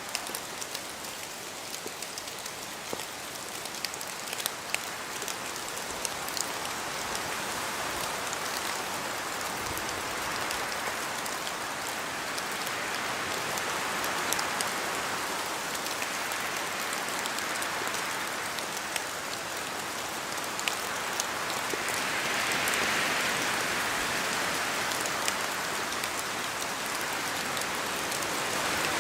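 Steady rain falling through spruce trees, with many separate drops tapping close by over a continuous hiss. The hiss of the rain and wind swells about halfway through and again, more strongly, near the end.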